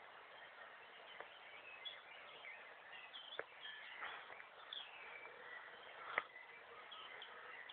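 Faint birds chirping, many short calls over a light hiss, with a couple of sharp clicks, one about three seconds in and a louder one about six seconds in.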